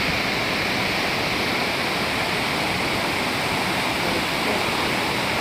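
Floodwater rushing steadily out of a dam's fully opened spillway gates.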